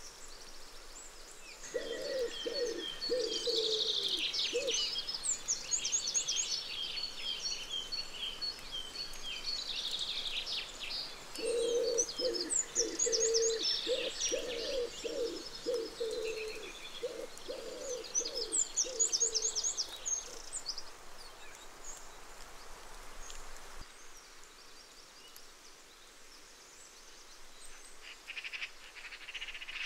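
Birds calling: quick series of high, chattering notes come and go, and runs of low cooing notes sound about two seconds in and again from about 11 to 20 seconds in. The calls drop away after about 21 seconds.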